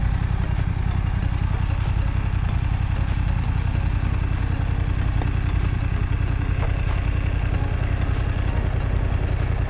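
BMW F 900 XR's 900 cc twin-cylinder engine idling steadily.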